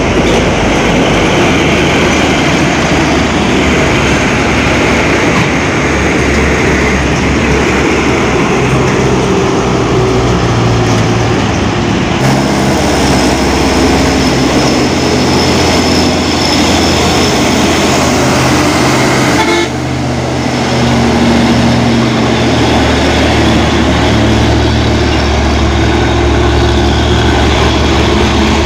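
Heavy trucks' engines running steadily as they drive uphill, a continuous low engine drone mixed with road and traffic noise, briefly dipping about two-thirds of the way through.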